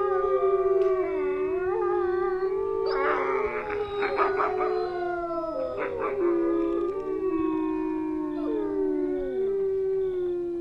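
A pack of wolves howling together, several long howls at different pitches overlapping, many sliding slowly down, with a cluster of short sharp calls about three seconds in.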